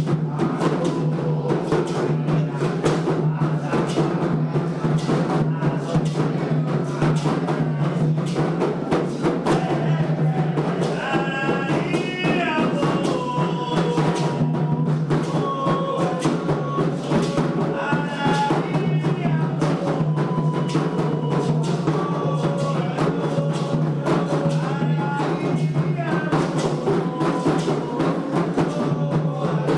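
Candomblé ritual drumming on hand drums at a steady, driving rhythm. Voices singing a chant for Xangô join in over the drums about ten seconds in.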